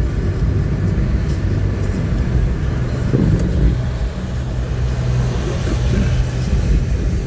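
Car driving: steady engine and road noise, a low rumble with an even hum.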